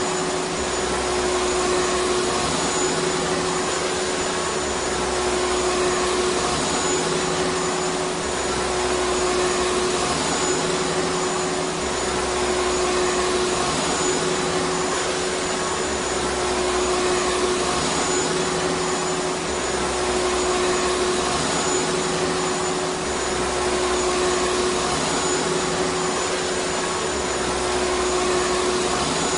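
Vacuum cleaner running steadily: a constant motor whine over a broad rushing hiss of airflow, with one clear steady tone in the lower middle of the range.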